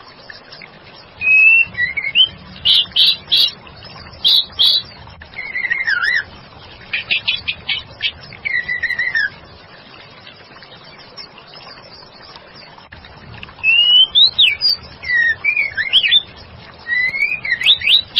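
Female white-rumped shama singing vigorously: bursts of clear whistles that glide up and down, mixed with rapid chattering notes, falling silent for about four seconds in the middle before starting again. A steady faint hiss lies under the song.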